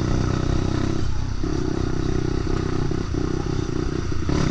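Lexmoto LXR 125's single-cylinder 125cc engine running at low, steady revs.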